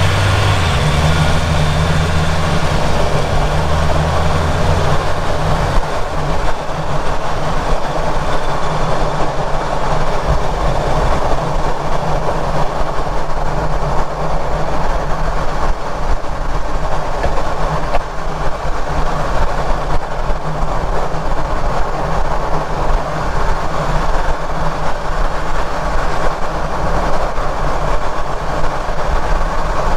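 Ford Ranger Raptor underbody noise on the move, picked up close to the propshaft bearing and rear differential: a steady, loud rumble and rush of tyres and driveline, with a low hum in the first few seconds. No grinding stands out at this spot, so the owner rules out the propshaft bearing as the source of the grind.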